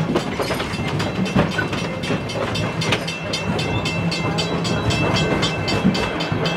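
Wildlife Express narrow-gauge train running along the track, heard from aboard a passenger car: a steady rumble and hum with a quick, even clicking of the wheels.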